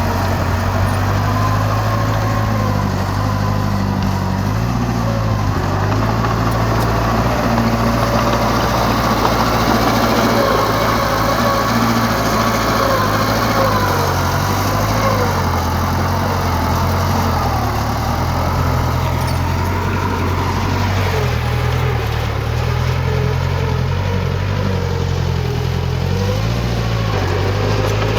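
Diesel engine of heavy earthmoving machinery running steadily under load, its note shifting up and down a little as it works.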